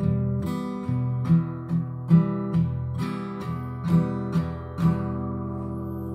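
Acoustic guitar strummed in a steady rhythm, then a last chord left to ring and slowly fade about five seconds in: the close of a song.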